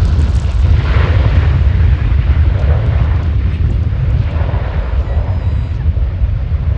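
Strong wind buffeting the microphone in a deep, continuous rumble, mixed with the roar of a landing airliner's jet engines.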